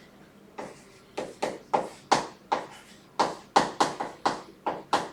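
Writing on a classroom board: a quick run of short, sharp taps and strokes, about three a second, starting about half a second in.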